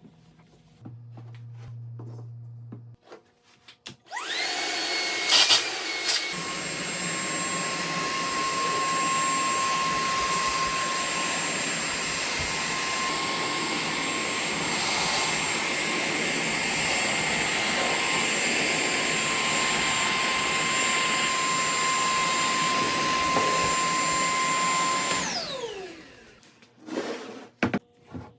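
Milwaukee M18BLCV2 cordless brushless vacuum switched on: its motor spins up with a rising whine, runs steadily with a rushing hiss for about twenty seconds, then winds down with a falling whine. A couple of sharp knocks come just after it starts.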